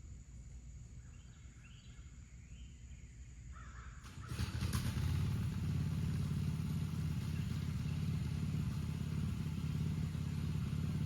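Faint bird chirps, then about four seconds in a small engine starts up loudly and keeps running steadily.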